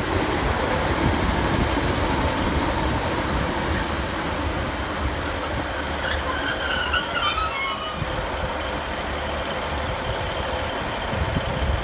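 Class 156 Sprinter diesel multiple unit running past along the platform, a steady rumble of engine and wheels on the rails. About six seconds in, a brief high-pitched metallic squeal falls in pitch and dies away before the eight-second mark.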